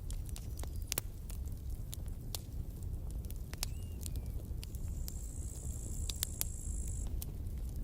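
Campfire burning: wood crackling and popping in scattered sharp snaps over a low steady rumble. A thin high hiss rises about two-thirds of the way in and stops a couple of seconds later.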